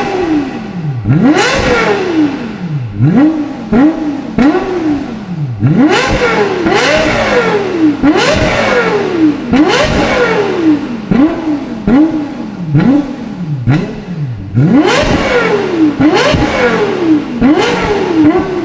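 Lexus LFA's 4.8-litre V10 being revved again and again, roughly once a second. The pitch rises sharply on each blip and falls back before the next.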